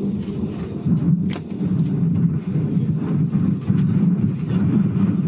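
Loud, low, rough rumble inside a Boeing 737-500 airliner's cabin as it rolls down the runway just after a hard landing, with a few sharp knocks and rattles, one clear one about a second in.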